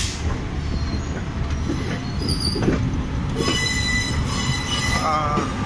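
Old ICF passenger coach rolling slowly out of the station, heard from aboard: a steady rumble of wheels on the rails with a couple of knocks and a faint high wheel squeal.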